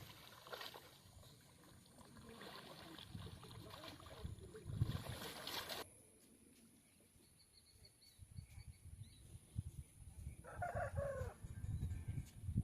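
Faint rustling that cuts off suddenly about six seconds in, then a rooster crowing once, briefly, about ten seconds in, over low rumbling on the microphone.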